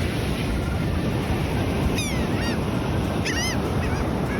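Steady rushing noise, like wind on the microphone, with short honking bird calls about two seconds in and again after three seconds.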